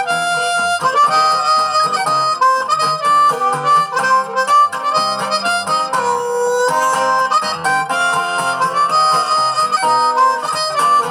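Harmonica playing a melodic solo in an instrumental break of a song, with held and gliding notes.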